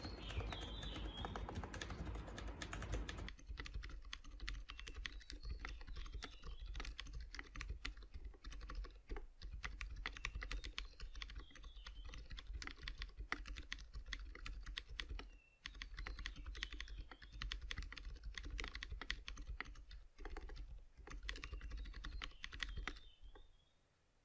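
Continuous fast typing on a GK64 mechanical keyboard with Gateron Silent Brown switches, which are dampened tactile switches. The keystrokes stop shortly before the end.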